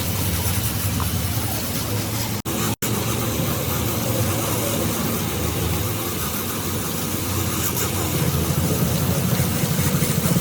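An engine running steadily, with a low throb that grows a little louder about eight seconds in. The sound drops out twice, briefly, a little under three seconds in.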